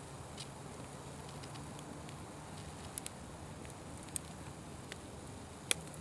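Wood fire crackling, with a few sharp pops spread through, the loudest one near the end, over a steady low rumble.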